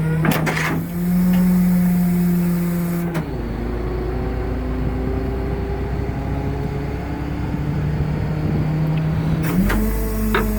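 Caterpillar C7 diesel engine of a garbage truck running, its speed stepping up and down as the truck's hydraulics work, with sharp metal clanks just after the start and again near the end.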